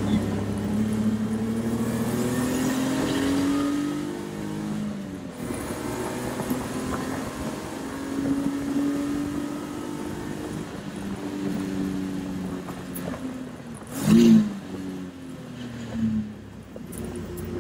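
Race car engine heard from inside the cockpit, accelerating hard with the pitch climbing through a gear change, then falling away under braking. There is a short sharp rev spike about 14 seconds in and a smaller one two seconds later, throttle blips on downshifts.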